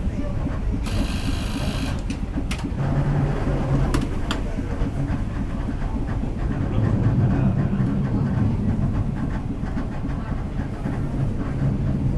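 St. Charles streetcar running on its rails: a steady low rumble with motor hum that swells twice. A short burst of hiss comes about a second in, followed by a few sharp clicks.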